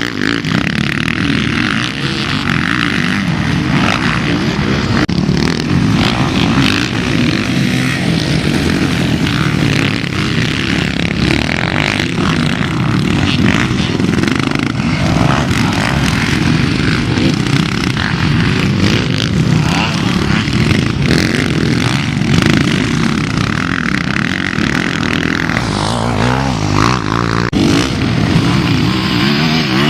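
Several motocross bikes racing, their engines revving up and down as they accelerate and pass.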